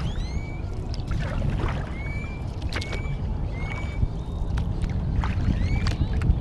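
Kayak paddling: the paddle dips and splashes water along the hull over a steady low rumble. A bird repeatedly gives short, rising whistled calls.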